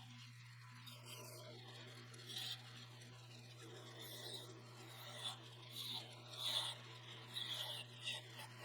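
Wood spinning on a wood lathe being worked in short scraping strokes, several coming close together in the second half, over a steady low hum.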